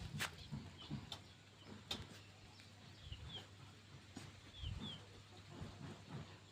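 Faint bird chirps: short falling notes in pairs, twice, over scattered sharp clicks and low thumps.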